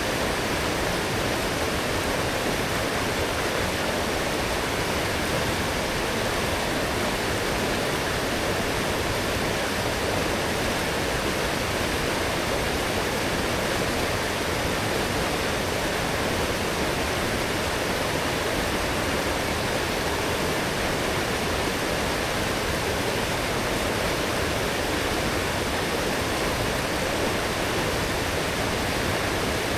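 Swollen forest stream after heavy rain: a strong, steady rush of flowing water, unchanging throughout.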